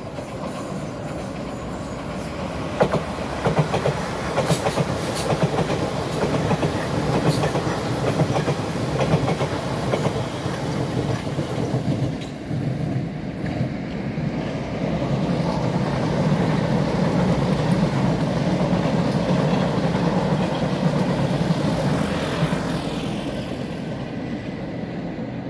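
A train running on the rails: a steady rumble with sharp wheel clicks over the rail joints in the first half, the rumble swelling in the middle and easing off near the end.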